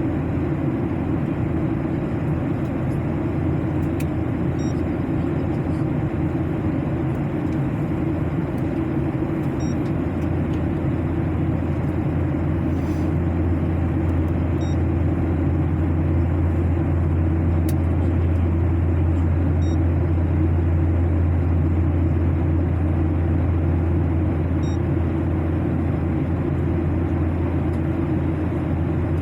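Airliner cabin noise during the climb: a steady low engine and airflow rumble that swells slightly midway through. Faint short high pips sound about every five seconds.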